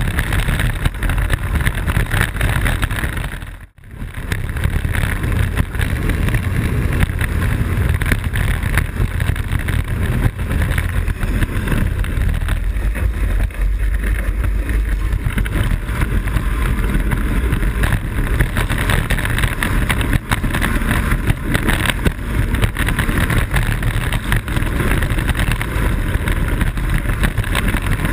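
Blokart land yacht sailing fast: steady loud wind rush on the microphone over a low rolling rumble. The sound drops away sharply for a moment about four seconds in.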